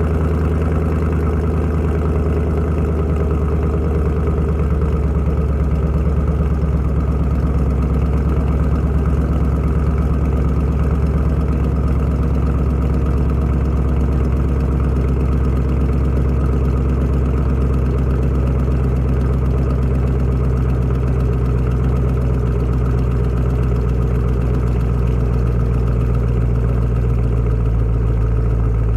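2015 Camaro Z/28's 7.0-litre LS7 V8 idling steadily through its exhaust just after a cold start, its pitch easing slightly lower as it goes.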